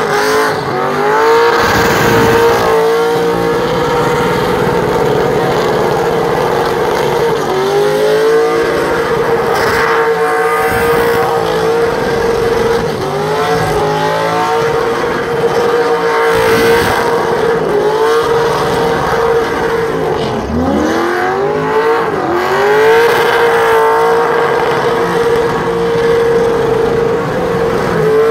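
Burnout car's engine held at high revs while its rear tyres spin and smoke. The revs dip and climb straight back up several times, with the hiss and squeal of the spinning tyres underneath.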